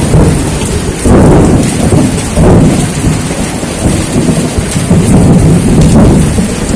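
Thunderstorm: a steady hiss of heavy rain under loud, continuous rolling thunder that swells and eases in surges every second or so.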